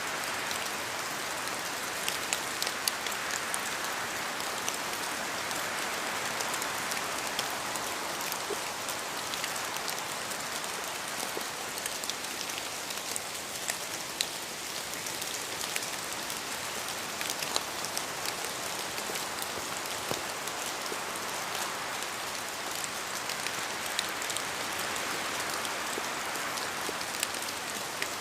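Steady rain falling in a forest, an even hiss with many individual drops ticking close by; the hiss swells and eases gently every several seconds.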